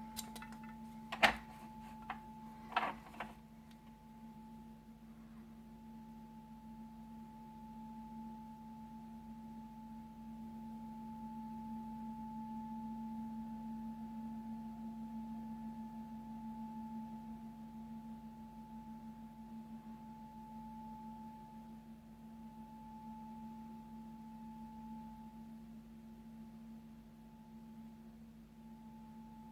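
A steady, unexplained whistling tone heard at night, holding two pitches, a low hum and a higher whistle, that swell slightly and fade back. A few sharp knocks, the loudest sound, come about one and three seconds in.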